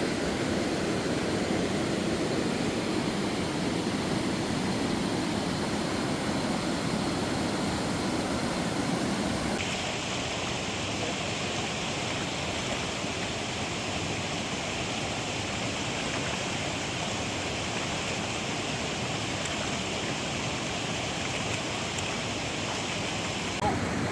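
Waterfall water rushing steadily, a continuous roar that changes character abruptly about ten seconds in, turning from a deeper rush to a brighter hiss.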